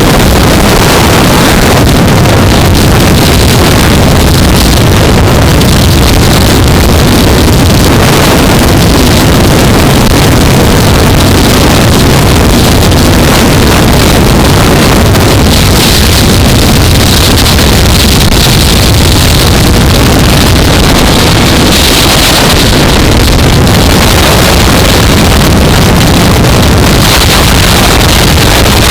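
Loud, steady wind rushing over a helmet-mounted camera's microphone, with the 2015 Yamaha R3's parallel-twin engine running underneath as the motorcycle is ridden.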